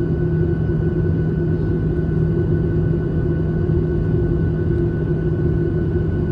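Steady airliner cabin noise in flight: a constant engine drone and rush of air, with a few steady hum tones in it.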